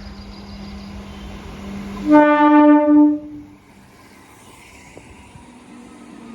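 Train horn sounding one blast of about a second, over the steady running noise of a suburban electric train.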